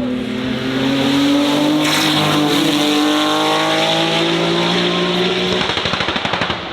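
A high-performance car's engine running hard as it passes, its pitch holding and then sliding lower. It breaks into a rapid crackle near the end.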